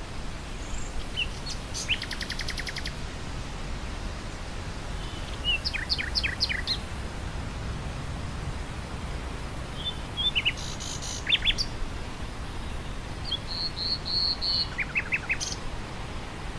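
Nightingale singing four short phrases of fast repeated notes and whistles, with pauses between them, over a steady low rush of wind.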